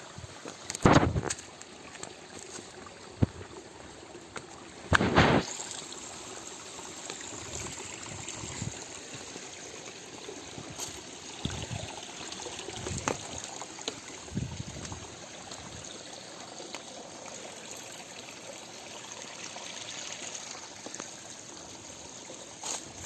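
Stream water trickling and flowing steadily, with two loud thumps about one and five seconds in and a few lighter knocks after.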